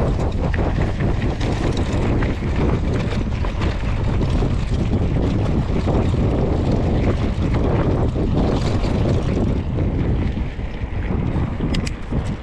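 Wind buffeting the microphone of a mountain bike riding a forest dirt road, with steady tyre rumble and frequent clicks and knocks from the bike over the rough surface.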